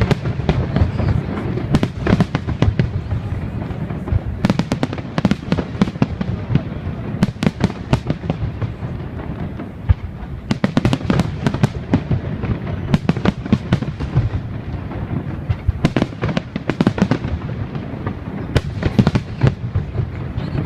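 Fireworks display: rapid volleys of sharp bangs and crackling, coming in dense clusters every second or two over a continuous low rumble.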